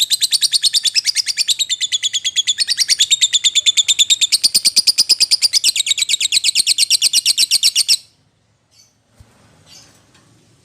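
Lovebird calling to a mate or rival with a long, rapid, high-pitched chattering trill of about ten notes a second, which stops suddenly about eight seconds in; a few faint chirps follow.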